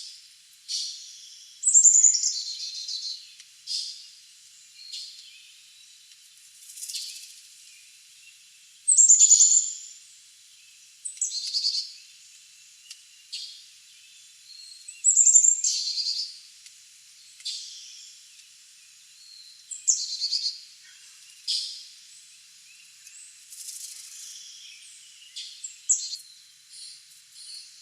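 Wild birds calling: repeated sharp, high notes that drop steeply in pitch, spaced a few seconds apart, with fainter chirps in between.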